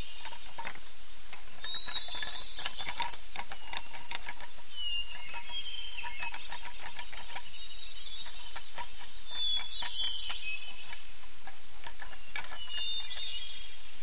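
Birdsong ambience: small songbirds give short chirping phrases every couple of seconds, over a steady background hiss with scattered short clicks.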